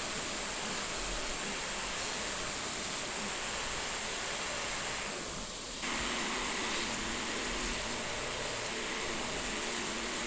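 Steady abrasive hiss of a grinder working the high-carbon steel blank of a tractor-disc cleaver, with a brief dip and an abrupt change about six seconds in.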